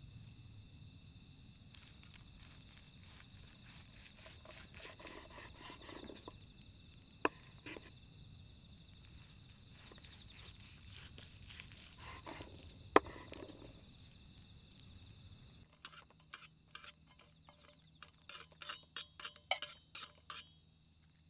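Insects chirping steadily with a low background rumble and a few sharp pops, typical of a campfire. About two-thirds of the way through the sound cuts to a quieter background with a faint hum, and a quick run of light clinks follows, like glass or tableware being handled.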